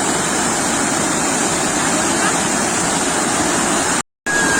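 Steady rush of sea surf breaking on a beach, cutting out completely for a split second near the end.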